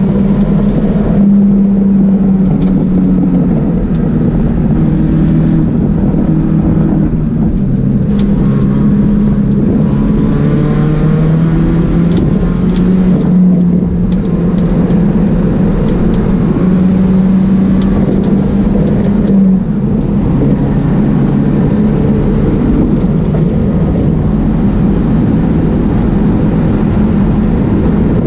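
Pontiac Solstice race car's engine running hard on track, heard from inside the cabin. Its loud engine note steps up and down in pitch several times as the car accelerates and slows.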